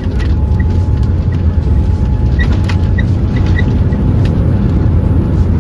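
Airliner cabin noise on final approach: a loud, steady low rumble of engines and rushing air, with a few faint light rattles.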